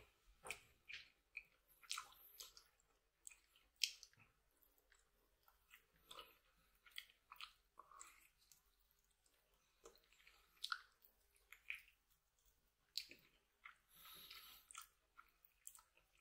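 Quiet close-up eating sounds of a man chewing and gnawing braised oxtail meat off the bone held in his hands: irregular wet smacks and clicks, with a longer, noisier sucking sound near the end.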